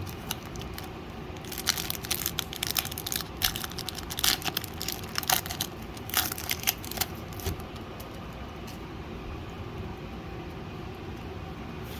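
Foil booster-pack wrapper crinkling and tearing open in a quick run of crisp crackles, which die away a little past halfway, leaving a low steady room hum.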